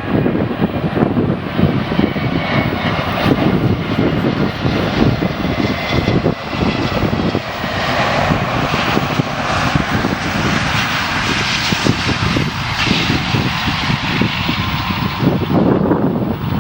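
Jet airliner engines passing at close range with a loud, steady rush. A faint whine slowly falls in pitch over the first few seconds.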